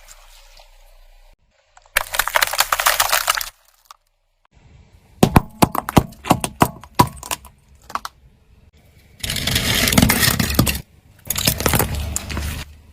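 Brittle objects cracking and crunching under a car tyre: a burst of crunching, then a run of sharp separate snaps, then two more bursts of crunching, each stopping abruptly.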